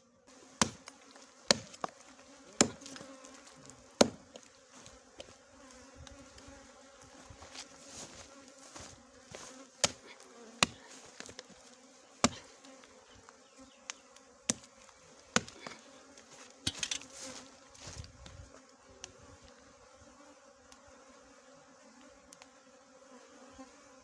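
A swarm of small honeybees buzzing steadily around their disturbed nest, with a dozen or so sharp, irregular clicks and knocks from the honey being cut out, the loudest in the first half.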